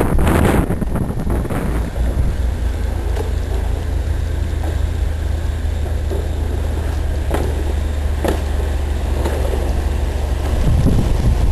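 Snowstorm wind buffeting the microphone: a louder gusty rush for the first couple of seconds, then a steady low rumble with a few faint ticks.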